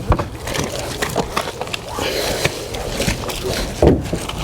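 Hand-washing a boat's hull and deck with a soapy microfiber wash pad: irregular wiping and rubbing with scattered clicks and knocks.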